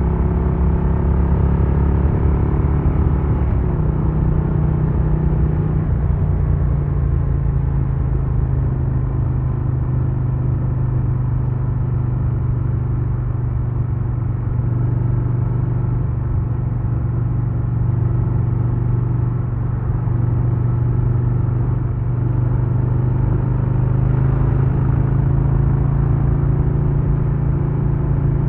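2022 Harley-Davidson Low Rider S's Milwaukee-Eight 117 V-twin engine and exhaust running on the move. The engine note climbs a few seconds in, drops back to a steady cruising drone for most of the time, and rises slightly again near the end.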